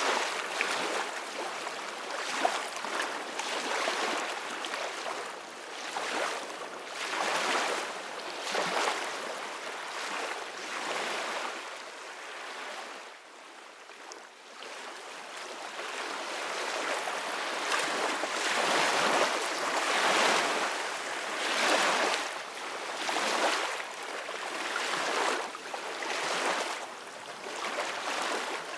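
Ocean waves washing in, the surf swelling and easing every couple of seconds, with a quieter lull about halfway through.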